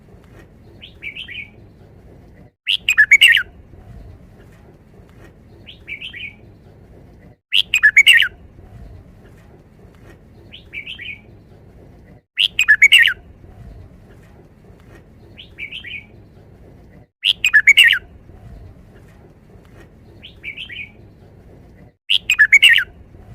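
Red-whiskered bulbul singing its loud five-syllable song phrase over and over, about every five seconds, with a softer short chirp between phrases.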